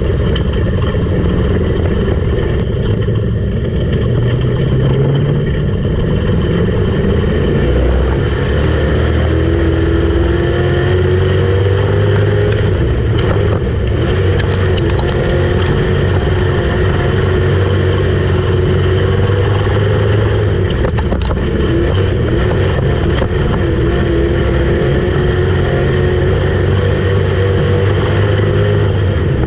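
Street stock race car engine running hard at speed, its pitch climbing through the first several seconds and then rising and falling as the throttle is worked through the turns.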